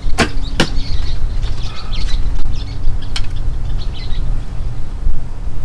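Small birds chirping, with two sharp clicks close together near the start and another about three seconds in, over a steady low rumble.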